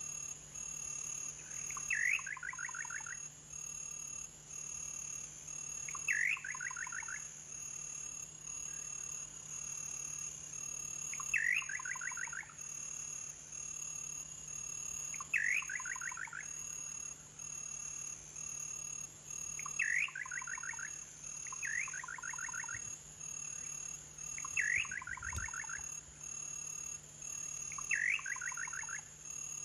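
A bird calling over and over, about every four seconds, eight calls in all: each is a sharp upswept note followed by a quick falling run of short notes. A steady high whine runs underneath.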